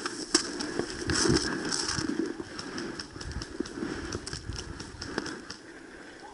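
Irregular crackling and rustling of a player's footsteps and gear moving through dry brush, with scattered short clicks.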